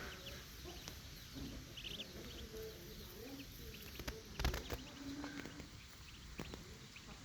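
Ducklings peeping in short, high chirps, with scattered lower calls from other farm poultry. A few sharp knocks come about four seconds in.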